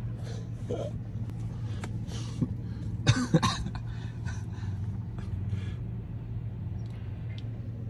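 A person coughing and clearing their throat several times, the strongest coughs in the first four seconds, over a steady low engine hum.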